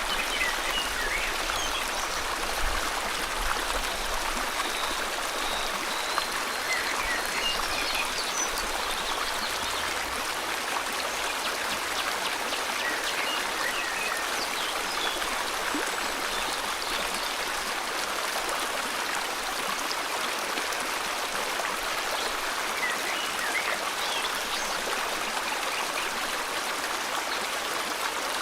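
River water flowing over rocks, a steady rushing and trickling, with faint bird chirps scattered through it.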